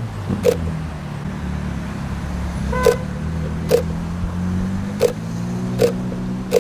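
Ferrari 458 Italia's V8 with an F1-style exhaust idling with a steady low note, creeping up slightly near the end. Short sharp clicks come at uneven intervals, and there is a brief high beep about three seconds in.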